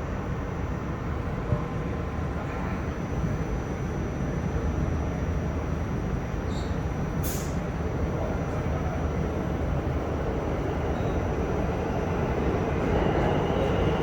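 Steady rumble and hum of an R46 subway car heard from inside, with a brief sharp click about seven seconds in. It grows louder near the end.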